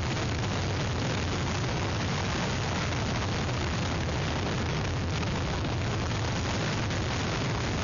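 Hurricane-force wind blowing across an outdoor webcam microphone, a steady loud rushing noise with heavy low rumble.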